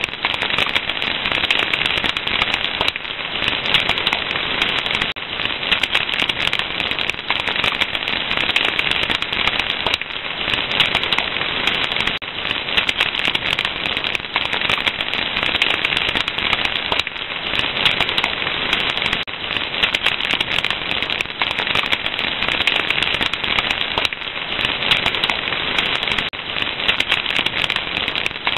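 Wood fire crackling: a steady, dense stream of small pops and crackles over a hiss, with frequent sharper snaps.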